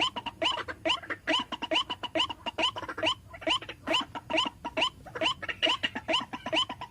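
White-breasted waterhen calls: a long, rapid series of short repeated notes, about four a second, each sharply rising. This is the waterhen's territorial calling used as a lure call.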